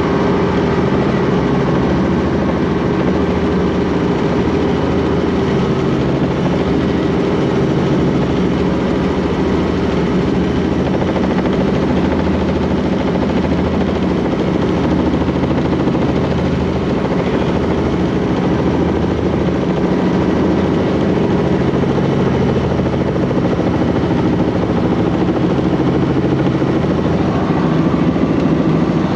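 Robinson piston helicopter running steadily, its engine and rotor making a loud, continuous drone.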